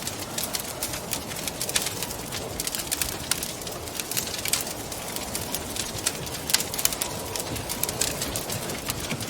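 Wood fire crackling, with frequent sharp pops and snaps, over a steady rushing wind.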